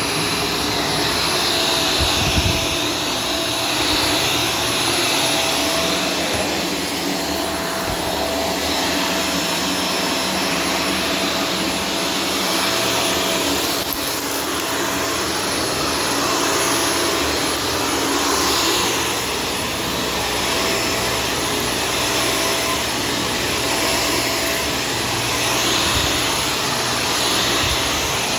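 Shark Stratos corded vacuum cleaner running steadily, its motor and suction making an even rush with a faint steady tone underneath. A few small knocks come about two seconds in.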